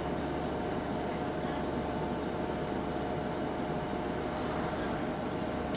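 Bus running with a steady whine from its hydraulic cooling fan over the engine and road noise.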